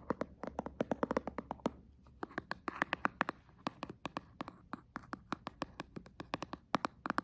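Hands handling a small cardboard box: a quick, uneven run of sharp taps, clicks and scratches, several a second, thinning out around the middle and then picking up again.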